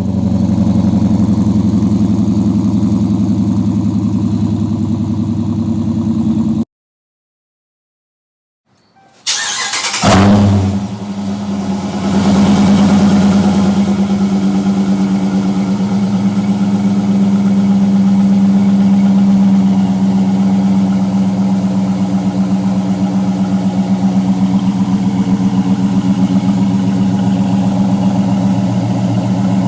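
Dodge Challenger R/T's 5.7-litre Hemi V8 idling through its exhaust, then a cut to silence. About nine seconds in, the engine cranks, starts with a quick rev flare and settles into a steady idle.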